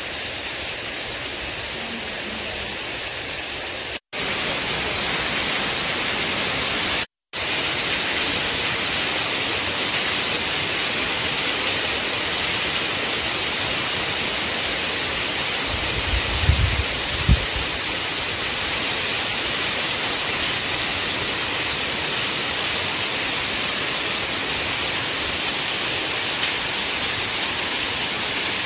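Heavy rain pouring steadily onto a waterlogged yard and tree leaves, an even hiss that cuts out briefly twice in the first quarter. A few low thumps come just past the middle.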